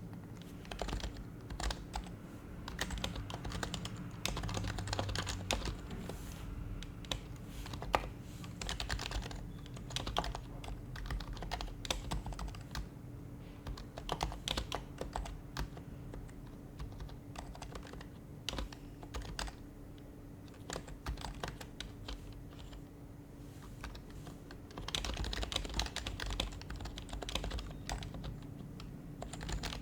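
Typing on an HHKB Professional Hybrid Type-S keyboard, its silenced Topre capacitive keys giving soft, muted key presses in uneven bursts with short pauses. A dense run of typing comes near the end, over a faint steady hum.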